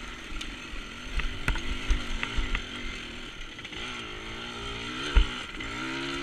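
Dirt bike engine revving up and down on a rough trail, with several sharp knocks from the bike hitting bumps; the loudest knock comes about five seconds in.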